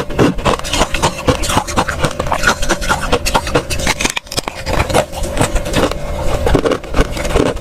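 Freezer frost crunching and crackling in a rapid, dense run, with a faint steady hum underneath.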